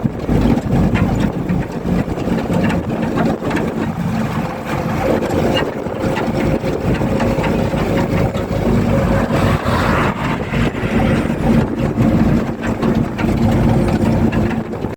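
Truck engine running steadily with a low drone.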